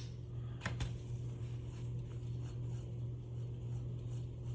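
Quiet handling of the spooling motor's small metal parts: a couple of light clicks about a second in, then faint soft rubbing. A steady low electrical hum runs underneath.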